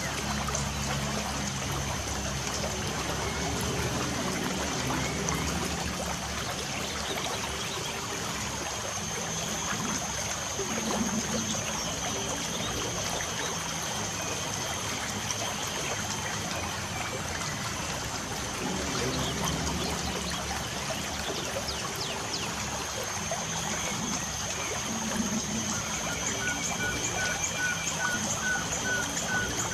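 Light rain falling with a steady trickle of water, and wild birds chirping over it; near the end one bird repeats a short note about three times a second.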